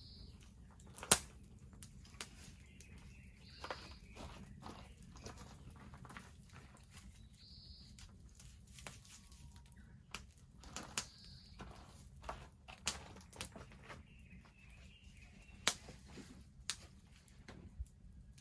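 Wood bonfire crackling, with irregular sharp pops, the loudest about a second in. A bird calls a short high note about every four seconds behind it.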